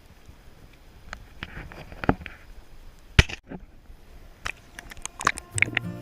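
Scattered sharp clicks and knocks, the loudest about three seconds in, then music coming in near the end.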